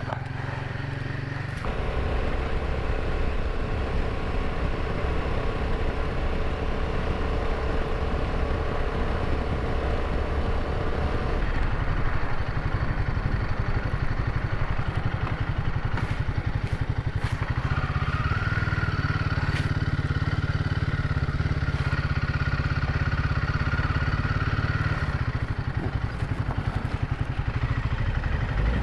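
Royal Enfield Himalayan 450's single-cylinder engine running steadily as the motorcycle rides along, growing louder about two seconds in as it pulls away, with a faint steady whine at times.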